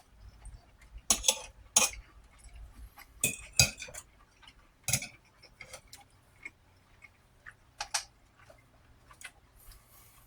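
Cutlery clinking against a plate while eating, a series of sharp, irregular clicks.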